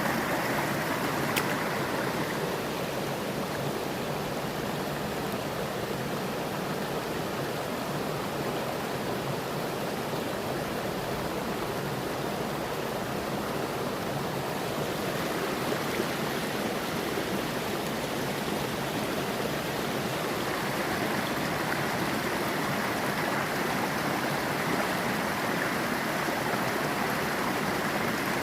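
Mountain stream water running steadily over rocks, a constant rushing babble.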